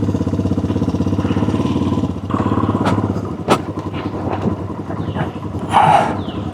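Honda CRF300 dual-sport motorcycle's single-cylinder engine running with an even, rapid pulse. About two seconds in the sound changes, with a few sharp clicks and a brief noisy burst near the end.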